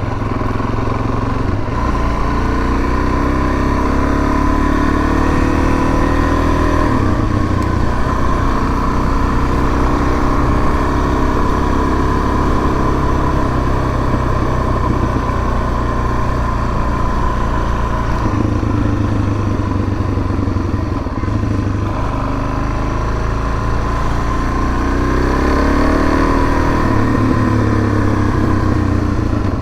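Suzuki DR-Z400S's single-cylinder four-stroke engine running as the bike is ridden. The revs rise and fall: they climb in the first few seconds, dip around seven seconds in, sit lower a little past the middle, and climb again near the end.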